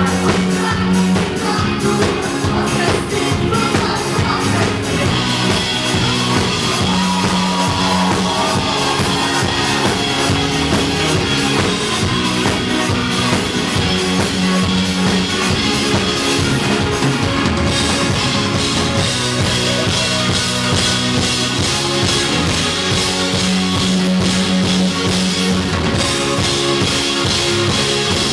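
A band playing a rock song on drum kit and guitar, with a steady drum beat throughout.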